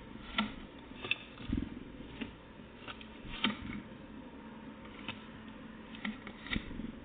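Irregular light taps and clicks, about eight in all, two of them duller thumps, over a faint steady background.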